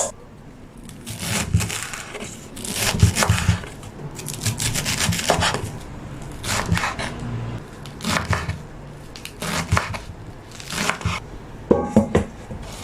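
Kitchen food preparation on a wooden board: irregular knocks and scraping strokes every second or so, like a knife cutting and pushing vegetables.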